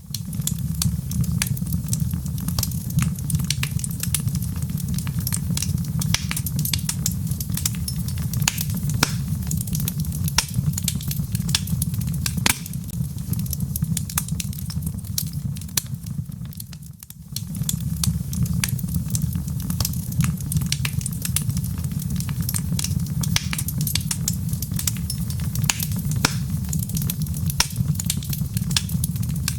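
Wood fire burning in a fireplace: a dense run of sharp crackles and pops over a steady low rumble of flame. The sound dips out briefly about seventeen seconds in, then returns.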